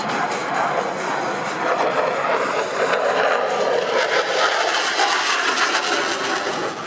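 Jet engine noise from T-50B aerobatic jets flying a display, a loud steady rushing sound that swells a little in the middle.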